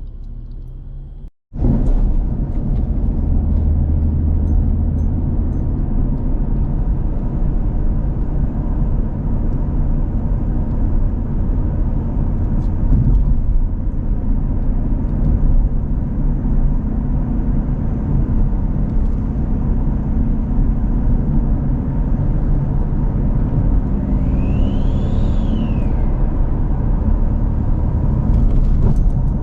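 S197 Ford Mustang with a 3.7 L Cyclone V6, fitted with turbo manifolds and exhaust but running unboosted on a fresh injector tune, being driven: steady engine and road rumble. Near the end a brief whistle rises and then falls in pitch.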